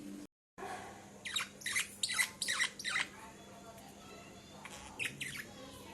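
Pet budgerigars chirping: a quick run of short, sharp calls about a second in, then two more near the end. The sound cuts out completely for a moment just after the start.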